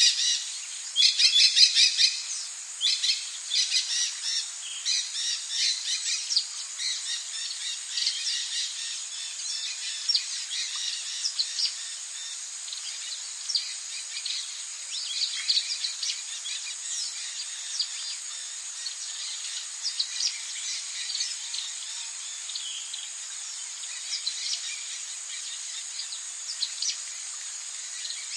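A chorus of tropical forest birds chirping and calling, loudest and busiest in the first couple of seconds and then thinner and fainter. A steady high insect buzz runs underneath.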